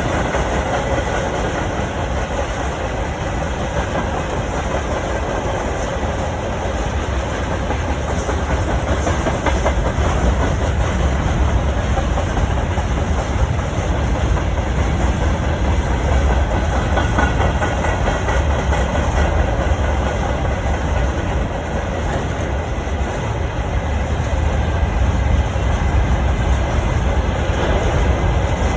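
Heavy freight train running past at speed: a steady, loud rumble of wagons rolling on the rails.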